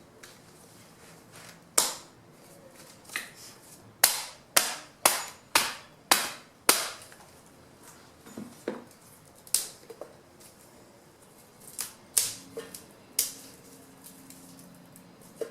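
Sharp woody cracks of small fallen branches being cut into wood chips by hand, about fifteen strikes at an uneven pace, with a quick run of six about half a second apart in the middle.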